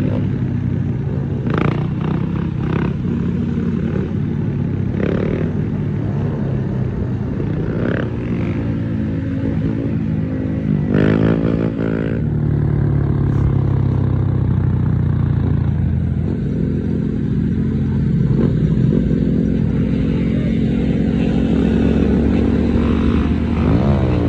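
Small-bore motorcycle engines running, with a couple of revs, one about halfway through and another near the end.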